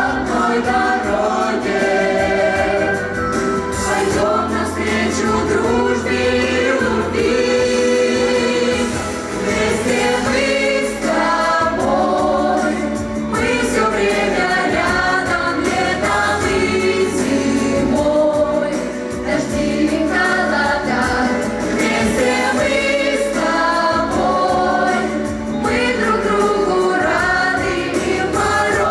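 Vocal ensemble singing a wartime song together, over an instrumental accompaniment with a steady bass line.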